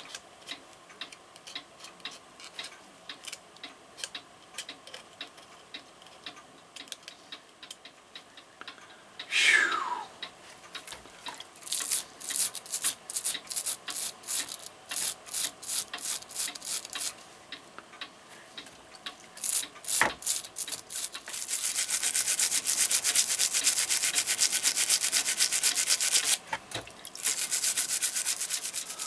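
Brass brush scrubbing grimy clock movement parts in cleaning solution: scattered light clicks at first and a brief falling squeak about ten seconds in, then separate strokes about three a second, turning into fast, continuous scrubbing in the second half.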